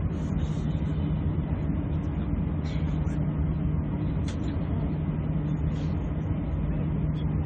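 Steady drone of an airliner's cabin, a constant low hum under an even rush of air, while the aircraft holds on the ground; a few faint clicks sound over it.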